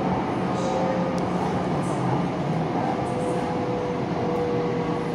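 BTS Skytrain electric train running along the elevated line, heard from inside the car: a steady rumble of wheels and running gear with a faint held whine.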